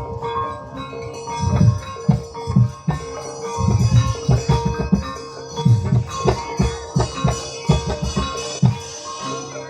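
Accompaniment music for a kuda kepang (ebeg) dance: quick runs of low hand-drum strokes over mallet percussion and a steady held note.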